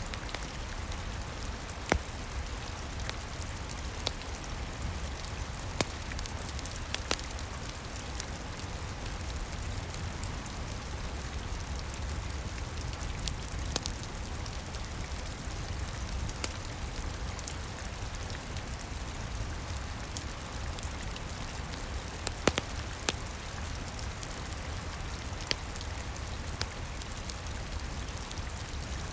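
Steady rain with a low rumble underneath, mixed with scattered sharp crackles of a wood fire; a few louder pops come about two seconds in and again about three quarters of the way through.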